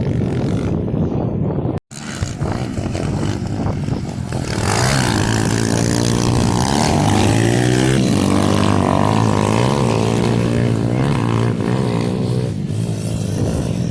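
Small-displacement pit bike engines revving on a race track. A brief break about two seconds in; from about four seconds in, more than one engine rises and falls in pitch through the gears.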